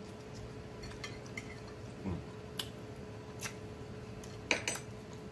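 Close-miked chewing and wet mouth smacks of a man eating baked chicken, with scattered small clicks, a short 'mm' about two seconds in, and a couple of sharper clicks of a fork on the plate about four and a half seconds in.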